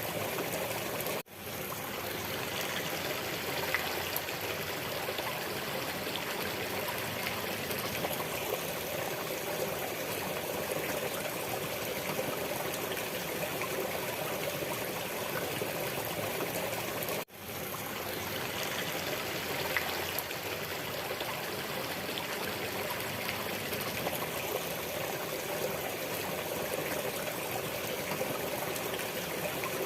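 Steady flowing water of a stream, trickling and babbling evenly. It cuts out for an instant twice, about a second in and again some sixteen seconds later.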